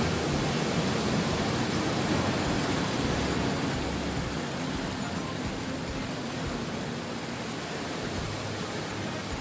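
Steady rushing noise of sea surf breaking along the shore, with no pauses or distinct strikes.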